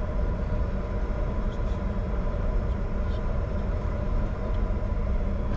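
Steady cockpit noise of a Bombardier Challenger 605 business jet taxiing: a low rumble under a constant hum with several steady tones from the running engines and aircraft systems.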